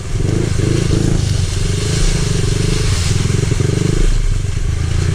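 Small pit bike engine running under way on a dirt trail, its pitch wavering up and down with the throttle.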